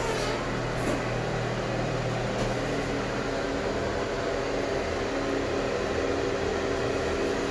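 A steady motor hum with an even hiss over it, running without a break.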